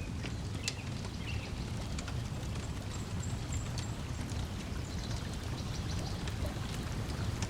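Wood fire crackling with scattered sharp pops over a steady low wash of lake water lapping at the shore, with faint brief bird chirps.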